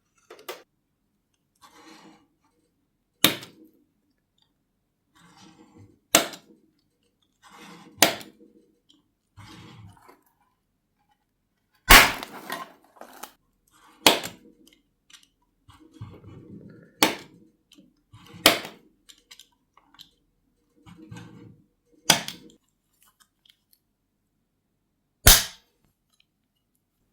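Hand work on a small die-cast metal toy car: about nine sharp snapping knocks at uneven intervals, with quieter scuffing and handling noises of parts and tools between them.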